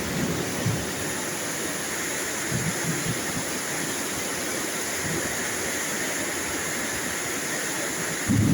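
Steady heavy rain falling, an even hiss, with a low rumble of thunder rising near the end.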